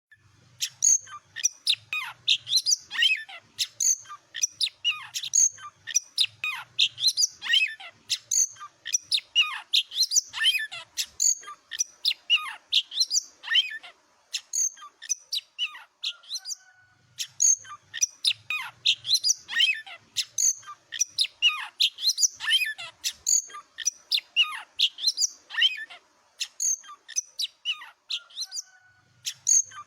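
Oriental magpie-robin (kacer) singing non-stop: a rapid, varied run of high whistles, chirps and trills broken by short pauses. The same song passage comes round again after about seventeen seconds.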